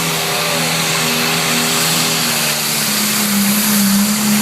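John Deere 4255 tractor's engine running hard under full load while pulling the weight sled. The note holds steady, then climbs in pitch and gets a little louder about three seconds in.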